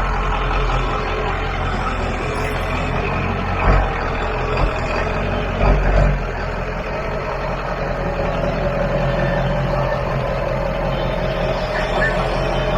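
Truck engine running steadily, with a few louder low thumps about four and six seconds in.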